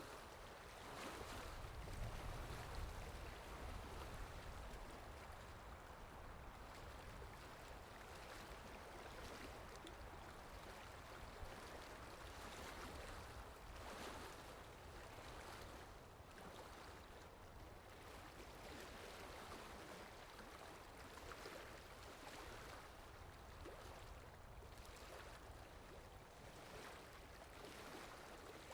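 Faint ambient water sound effect: a steady wash of flowing water that slowly swells and eases.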